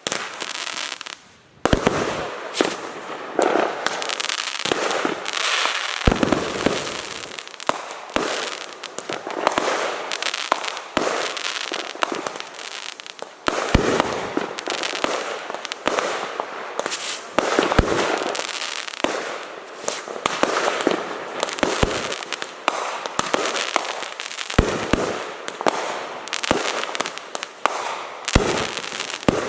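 Fireworks going off nonstop: sharp bangs in quick succession over continuous crackling, with a brief lull about a second in.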